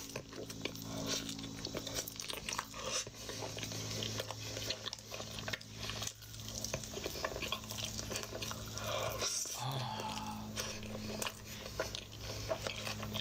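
Close-miked mukbang eating of Taco Bell food: biting and chewing with crunches and wet mouth clicks, over a steady low hum.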